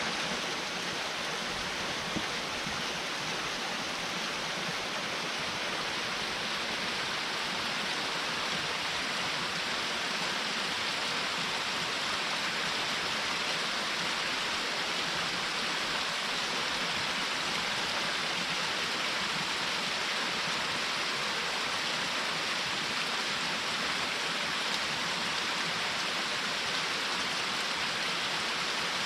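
Small waterfall splashing steadily into its pool: an even, unbroken rush of falling water.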